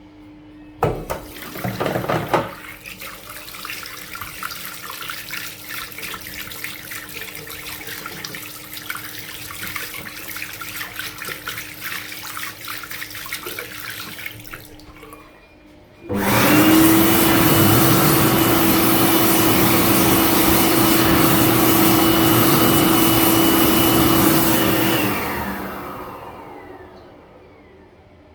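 Kuairete K2201 (Heatstore Tornado 2) hand dryer blowing at full power with a steady motor hum and a high whine for about nine seconds, starting about halfway in, then cutting out and spinning down with falling pitch. Before it, an uneven rushing sound follows a loud knock near the start.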